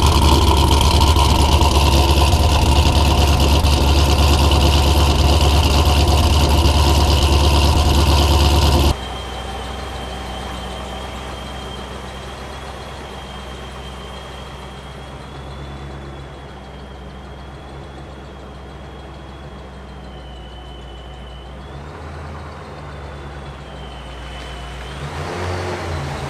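Supercharged 6.0-litre V8 of a 2006 Pontiac GTO idling after a cold start, with a thin high whine over the engine note. The sound drops suddenly in level about nine seconds in, and the engine speed rises briefly twice near the end, lifting the whine with it.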